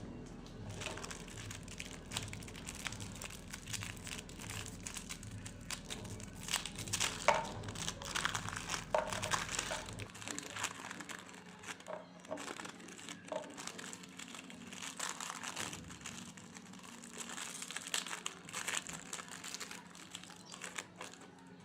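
Plastic biscuit wrappers crinkling and crackling as they are handled and torn open, with a low hum pulsing about twice a second underneath that stops about halfway through.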